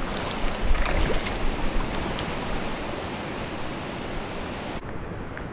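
Steady rush of a flowing stream, with a few low thumps in the first second or so; the sound turns duller near the end.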